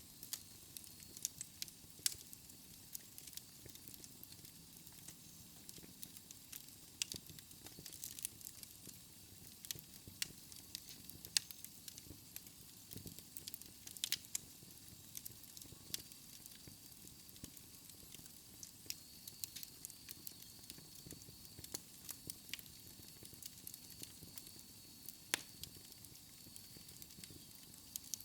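Wood fire crackling in a fireplace: irregular sharp pops and snaps over a soft steady hiss. A faint high whistle joins about halfway through.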